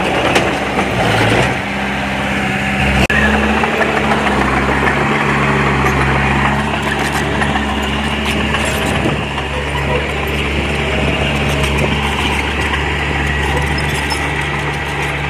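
Diesel engine of heavy earthmoving machinery running steadily, its low drone shifting in pitch with load, over a constant mechanical clatter, with a sharp knock about three seconds in.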